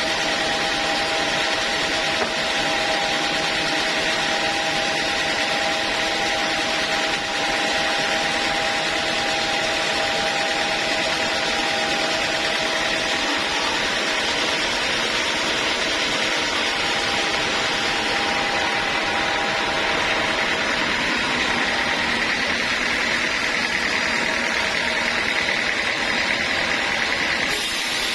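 Sawmill saw machinery running steadily, a loud continuous mechanical noise with a few steady tones in it.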